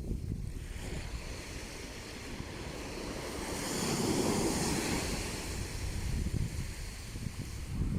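Sea waves: a wave breaks and washes in, its surf hiss swelling to a peak about halfway through and then fading, over a steady low rumble of wind on the microphone.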